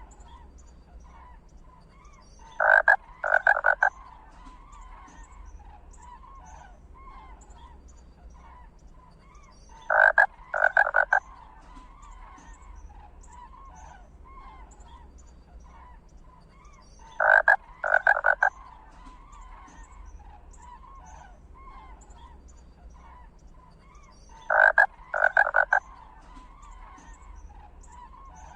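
Animal calls: a steady chorus of faint, short chirping calls, broken every seven seconds or so by a loud group of three quick calls, four times over.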